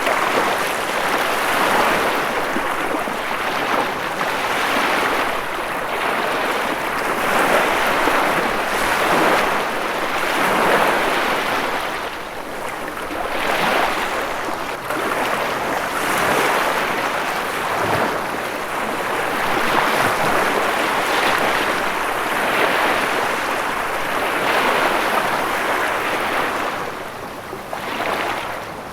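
Ocean surf washing continuously, swelling and easing every few seconds as waves break and run up.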